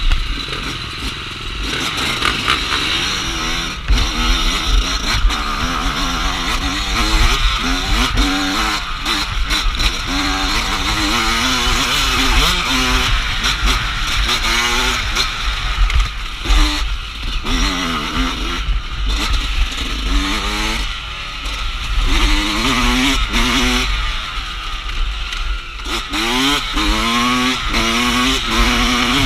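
Dirt bike engine revving as it is ridden off-road, its pitch climbing and dropping again and again as the throttle opens and closes, with wind buffeting the microphone.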